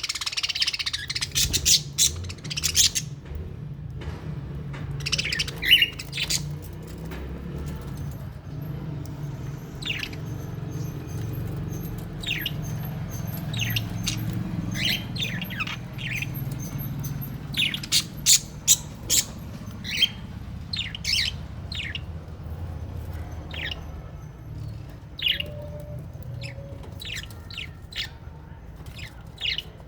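Small pet parrots, lovebirds and budgerigars in an aviary, giving short, sharp chirps and squawks, many in quick runs, over a steady low rumble.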